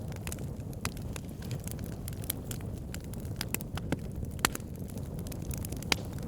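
Wood fire burning: a low steady rumble of flames with frequent irregular crackles and pops from the logs, the sharpest about four and a half and six seconds in.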